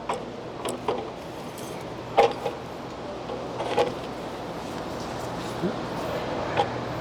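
Metal clanks and knocks as the stand is fitted back into a DiamaPro ROG-60 ride-on floor grinder: several sharp, briefly ringing strikes at uneven intervals, the loudest about two seconds in.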